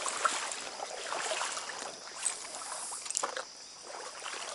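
Shallow stream water running and splashing, with small scattered clicks and one sharper click about three seconds in.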